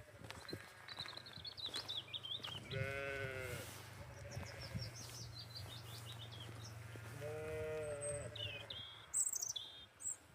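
Lambs bleating, two high wavering bleats a few seconds apart. Small birds chirp and trill between and after them.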